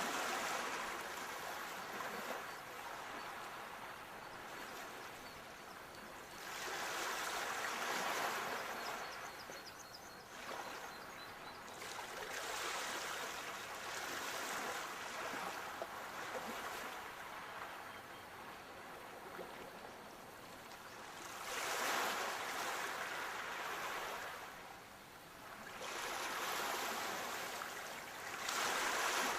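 Sea waves breaking and washing up on shore. The surf swells and fades in slow surges every several seconds.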